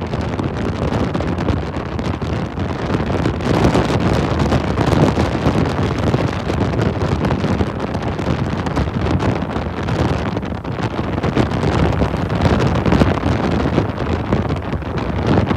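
Hurricane-force wind blowing hard across the microphone: a loud, continuous rushing noise that swells and eases with the gusts.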